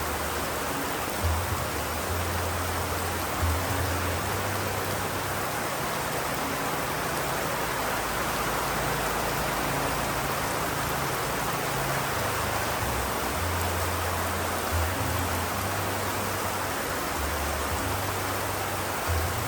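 Steady rain, an even dense hiss, over a low hum that comes and goes and shifts in pitch.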